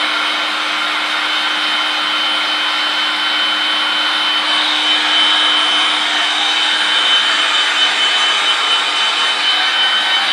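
Electric air-mattress pump running steadily as a makeshift hair dryer: a continuous rush of blown air with a steady high whine, a little louder from about halfway on.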